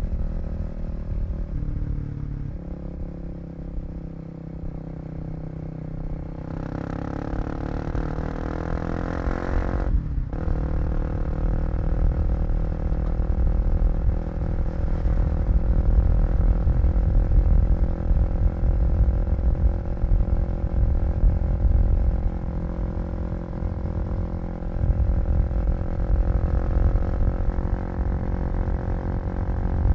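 Kawasaki KLX250 single-cylinder four-stroke engine, heard from the rider's seat. It runs low for a few seconds, then revs up with a rising pitch for about four seconds. About ten seconds in it drops sharply at a gear change, then pulls steadily at road speed over a low wind rumble.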